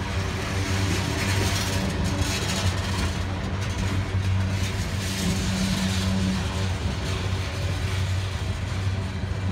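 Norfolk Southern diesel locomotives running with a steady low engine drone, over the broad rushing noise of a freight train.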